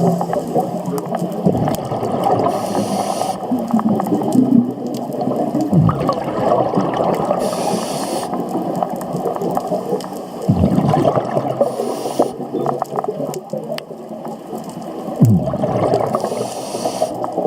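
Scuba diver breathing through a regulator underwater: a hiss of inhaled air and then a burst of exhaled bubbles rumbling, repeating about every four to five seconds, over steady water noise on the underwater camera housing.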